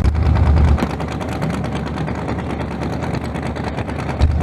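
Drag race car engine idling with a rapid, even firing rhythm. A deep low rumble under it drops away about a second in and comes back near the end.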